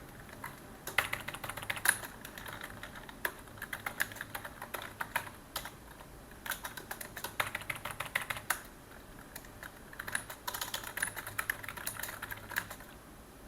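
Typing on a computer keyboard: rapid key clicks in four bursts separated by short pauses.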